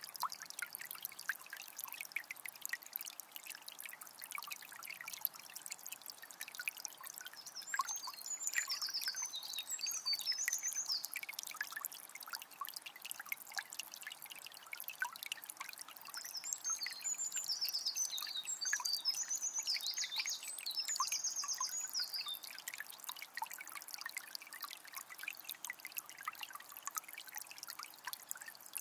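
Forest river flowing and trickling, a steady splashing hiss full of small drips. A songbird sings two long runs of rapid, high chirping notes, about eight seconds in and again from about sixteen to twenty-two seconds.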